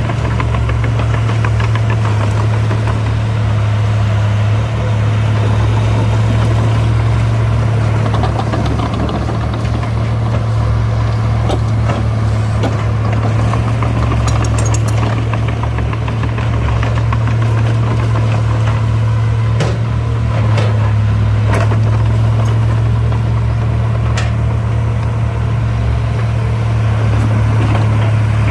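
Heavy diesel engine of tracked construction machinery running steadily with a deep hum, with a few sharp metallic knocks now and then.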